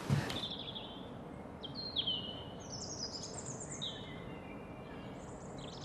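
Small birds chirping: a string of short, high calls, some falling in pitch, about one a second over a faint steady hiss.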